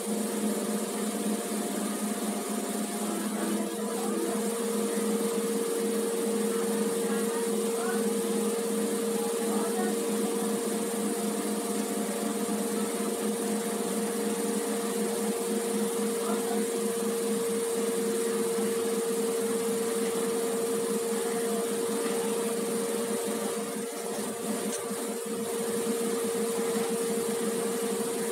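Passenger train running slowly, heard from its open doorway: a steady mechanical hum with a constant whine that comes in a few seconds in.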